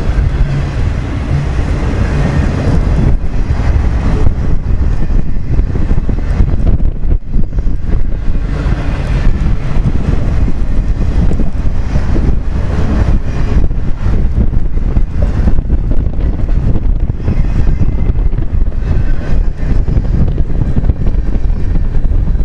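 Long CN manifest freight train passing, a steady loud noise heavy in the low end, with wind buffeting the microphone.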